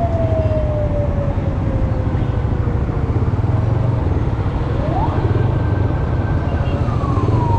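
An emergency-vehicle siren wailing over the steady low rumble of a motorcycle ride. Its tone falls slowly over the first three seconds, jumps up sharply about five seconds in, holds high for a moment, then falls again near the end.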